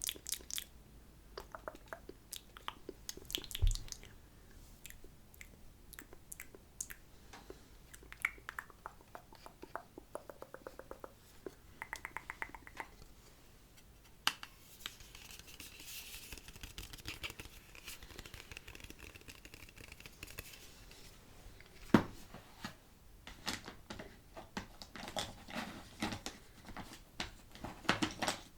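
Close-miked ASMR mouth sounds: irregular wet lip smacks, tongue clicks and pops, with a stretch of soft hiss about halfway through and one sharper snap later on.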